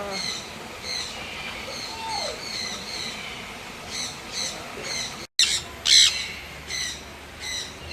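Aviary birds squawking: a run of short, harsh calls repeating every half second or so, with a few louder calls after a sudden break about five seconds in.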